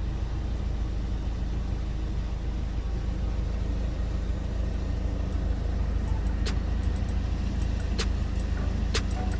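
Ford Fiesta engine running steadily while head gasket sealer circulates; it is smoking white, which the owner takes for a failed head gasket. Three sharp clicks sound in the second half.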